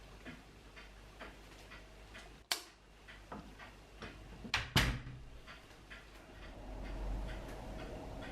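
A clock ticking steadily at about two ticks a second. A sharp knock comes about two and a half seconds in, then two more close together near the middle. A low hum rises near the end.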